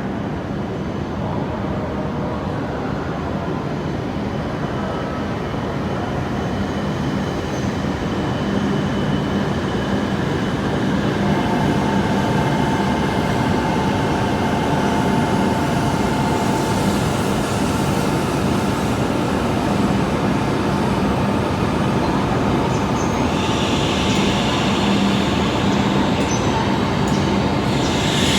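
Running noise heard inside an E7 series Shinkansen car: a dense rumble and rush of the train underway, with steady whining tones from the Mitsubishi IGBT VVVF traction equipment. It grows gradually louder, a higher tone joins about a third of the way in, and a bright hiss builds near the end.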